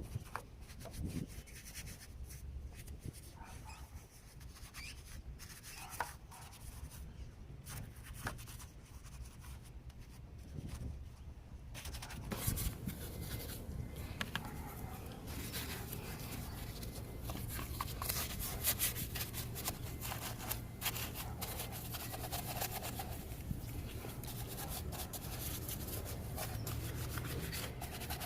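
Irregular rubbing strokes of cleaning on engine-bay surfaces, busier after about twelve seconds, with a steady low hum joining at that point.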